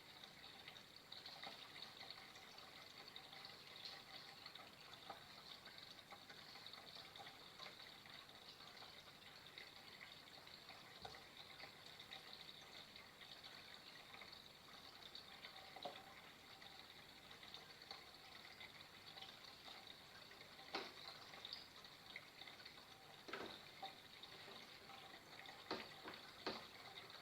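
Faint, steady trickle of flowing water, with a few sharper drips or splashes in the last third.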